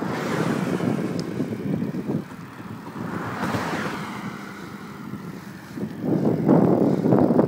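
Wind rushing over the microphone of a moving bike on a highway, a steady low rumble. Two whooshing swells, about a second and three and a half seconds in, are traffic passing. The wind buffeting grows louder from about six seconds in.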